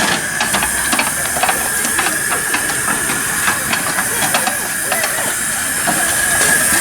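Live-steam miniature locomotive hissing steam steadily with a constant high tone, while scattered light clicks and knocks sound throughout.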